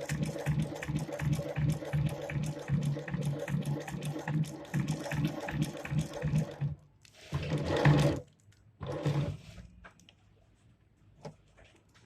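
XL 2971 shoe repair sewing machine stitching with a steady rhythm, stopping about two-thirds of the way through. Two short runs follow, then only a few light clicks.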